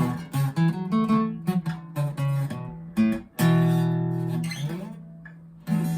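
Acoustic guitar strummed in an instrumental ending: a quick run of chords, then two chords about two seconds apart, each left to ring and fade.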